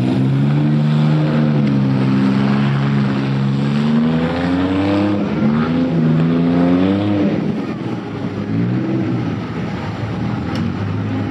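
Car engine running and revving: its pitch holds steady, climbs over a few seconds around the middle, drops back, then rises briefly once more.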